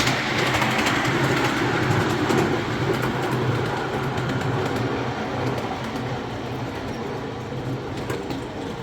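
Ride-on miniature railway train running along the track: steady running noise with a low hum and light clicking from the wheels on the rails, growing slowly quieter.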